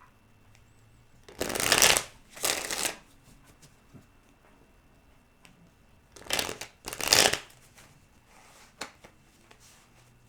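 Tarot cards being shuffled by hand: two pairs of short shuffling bursts, the first about two seconds in and the second about six to seven seconds in, with faint card rustles between.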